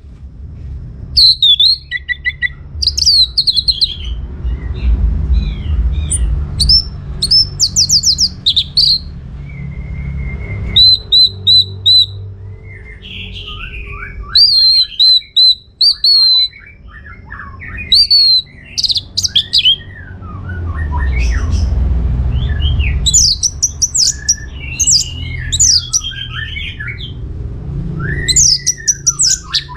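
Orange-headed thrush (anis merah) singing a varied song of short whistled phrases, rapid trills and chattering notes, broken by brief pauses, over a low background rumble.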